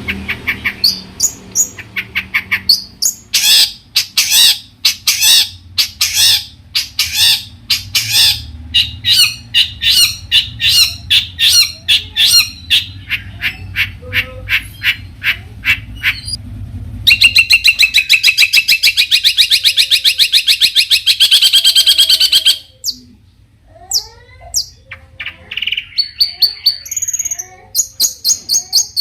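Long-tailed shrike (cendet) singing loudly in a varied song: rapid runs of sharp repeated chirps, then a harsh continuous rattle for about five seconds, followed by scattered chirps and high whistled notes.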